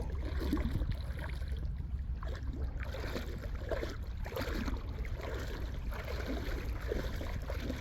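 Water lapping and splashing softly and irregularly as a small dog paddles, over a steady low rumble.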